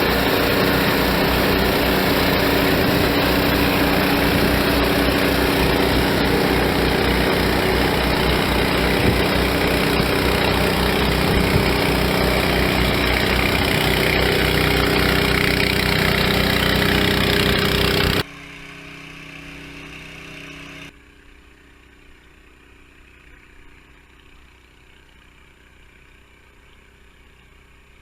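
An engine running steadily at one speed. It cuts off abruptly about two-thirds of the way through, leaving a much quieter hum that drops away again a few seconds later to faint background noise.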